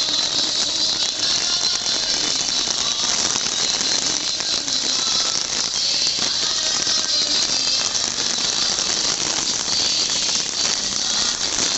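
Heavy rain falling steadily on wet paving, a dense even hiss.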